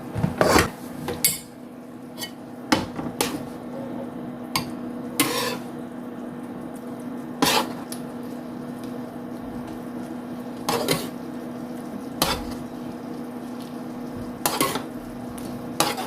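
Kitchenware clinking: a utensil knocks against a pan or dish about nine times at irregular intervals, over a steady low hum.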